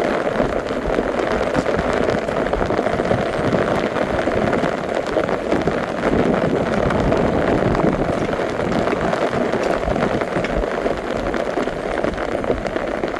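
Steady rain, a dense continuous hiss of many fine drops hitting a surface, without let-up.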